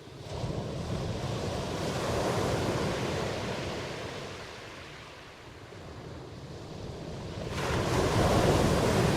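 Ocean waves washing in as a steady rush of surf. One swell builds in the first few seconds and ebbs to a lull, then a second, louder wave surges in about seven and a half seconds in.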